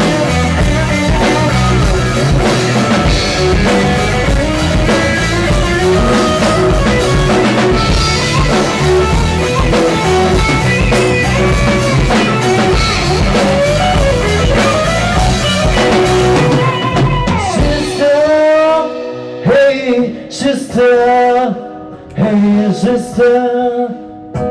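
Rock band playing a song with drum kit, guitar and singing. About 17 seconds in, the drums and low end drop out, leaving a sparse, stop-start passage of guitar and voice.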